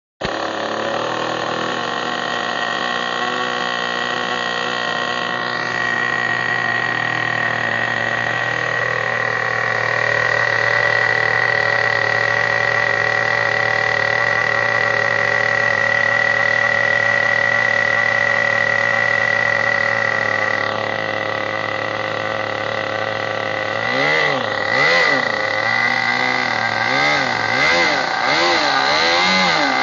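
O.S. 32 glow-fuel two-stroke model engine of an RC propeller boat running at a steady high speed. Near the end it revs up and down repeatedly as the throttle is opened and closed.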